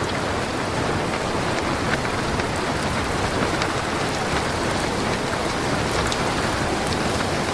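Steady rain falling on a surface, a continuous even hiss with scattered small drop ticks.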